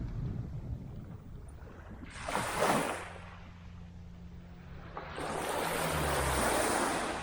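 Small waves breaking and washing up on a sandy shore: a short surge about two seconds in and a longer, louder wash from about five seconds on. Low wind rumble on the microphone runs underneath.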